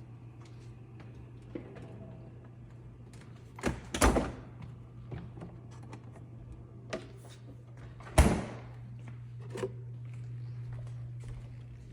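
Clunks and knocks of containers, drawers and shelves being handled while organizing a refrigerator: a double knock about four seconds in and the loudest one about eight seconds in. A steady low hum runs underneath.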